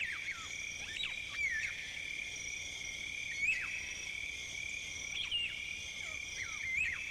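Rainforest insect chorus: a steady, high drone made of several pitches at once, with short swooping whistled calls from an unseen animal breaking in about half a dozen times.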